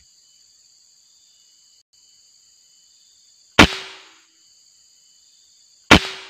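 Two shots from a DWP 19 PCP air rifle, sharp cracks about two and a half seconds apart, each with a short fading tail and a faint ring. A steady high-pitched hum runs underneath.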